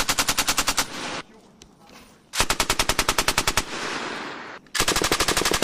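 Belt-fed machine gun firing three bursts of about a second each, shots coming fast and evenly at roughly a dozen a second, each burst followed by a rolling echo.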